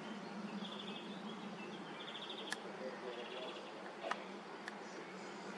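Short, rapid bird trills repeating a few times over a steady outdoor background hum, with a few sharp clicks.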